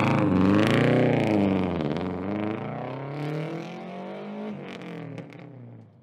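Car engine revving, its pitch swinging up and down several times as the sound fades out over a few seconds.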